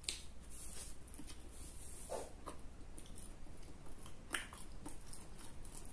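Faint mouth sounds of eating close to the microphone: chewing with a few soft clicks and smacks scattered through.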